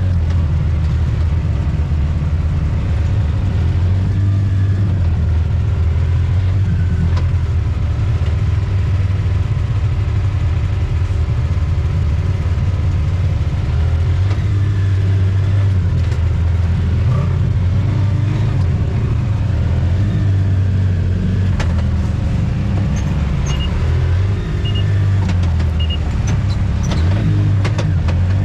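Off-road vehicle engine running steadily while driving a trail, its low drone rising and falling a little with the throttle, with a few light ticks near the end.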